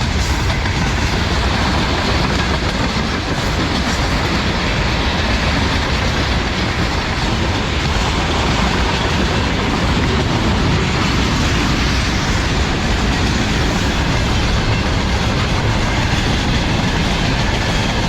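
Freight train wagons rolling steadily past, with the clatter of steel wheels over the rail joints.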